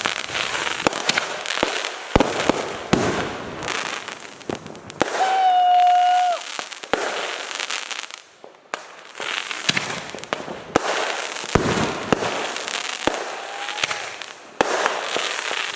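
Fireworks going off: a run of sharp bangs and crackling bursts, with a steady whistling tone held for about a second and a half about five seconds in.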